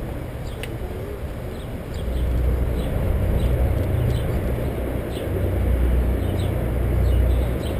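Wind buffeting the microphone over the rolling noise of a bicycle on a trail, louder from about two seconds in, with short high chirps scattered throughout.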